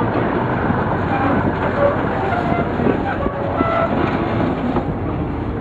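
Narrow-gauge train running uphill, heard from an open carriage window: a steady rumble of wheels on the rails and the diesel locomotives working, with rapid clattering and a few brief squeals.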